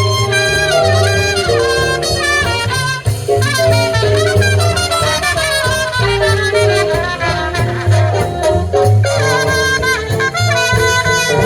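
Live big-band jazz: a brass and saxophone section playing together over a steady walking bass and rhythm section.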